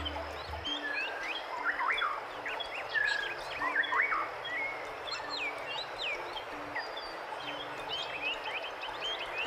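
Several birds calling at once: a busy chorus of short whistled chirps and quick up- and down-sweeping notes over a steady hiss.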